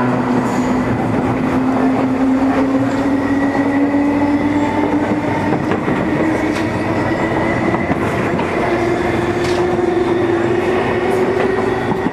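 MTR East Rail line electric train heard from inside a passenger car while running. Steady rumble from the wheels and rails, with a few clicks over rail joints and an electric motor whine that slowly rises in pitch as the train gathers speed.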